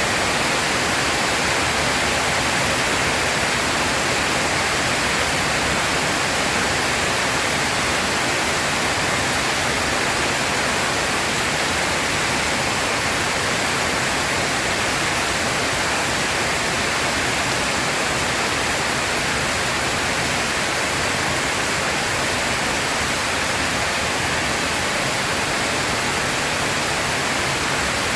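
Heavy rain pouring down steadily: an even, unbroken hiss with no thunder claps.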